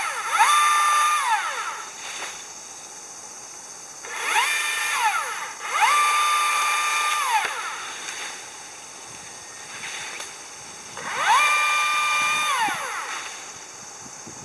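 Chainsaw revving up, holding at full speed for a second or two, then dropping back to idle, about four times.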